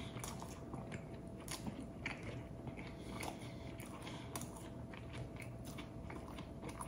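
Chewing a mouthful of crusty baguette sandwich, with small irregular crunches of the bread.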